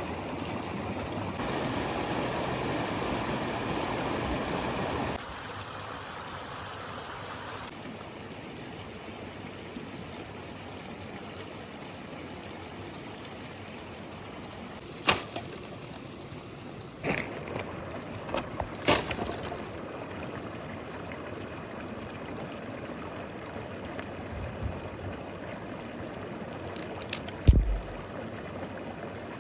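A river flowing steadily. The rush is louder for the first few seconds and drops suddenly about five seconds in. A few sharp knocks and clicks come through it, the loudest near the end.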